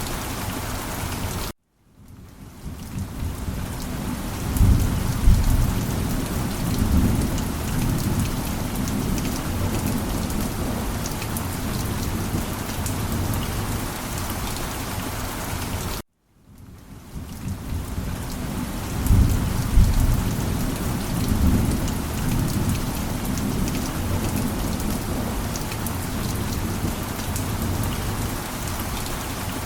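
Steady rain with low rumbles of thunder. The sound cuts out abruptly to silence for a moment twice, fades back in, and each time thunder rumbles a few seconds later, so the same rain-and-thunder stretch repeats about every fourteen and a half seconds.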